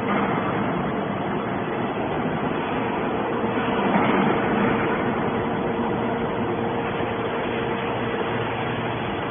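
Hydraulic scrap steel baler running: a steady mechanical drone with a faint held hum, which swells briefly about four seconds in.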